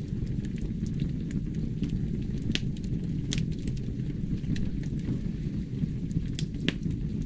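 Logs burning in a fireplace: a steady low rumble of flame with scattered sharp crackles and pops from the wood, a few a second, some louder than the rest.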